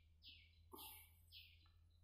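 Faint bird calling: a run of short, falling chirps repeated about twice a second.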